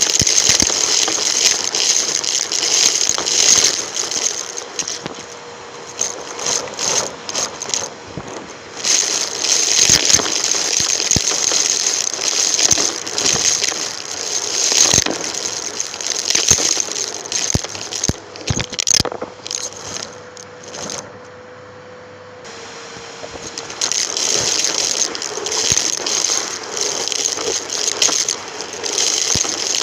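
Numatic James vacuum cleaner running, recorded with a microphone on the machine: a steady rush of airflow with debris clicking and rattling as it is sucked through. The rattling thins out a few times, longest about two-thirds of the way in.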